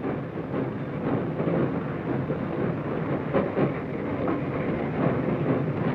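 Freight train running along the track: a steady rumble with irregular clatter, dull and muffled on an old film soundtrack.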